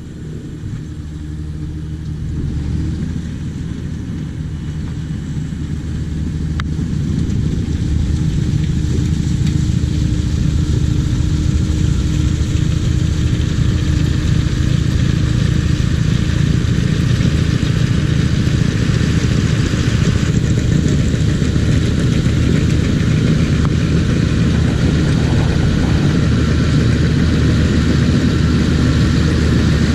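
Tractor engine running steadily with a tractor-mounted snowblower working through drifted snow. The drone builds over the first several seconds, then holds steady.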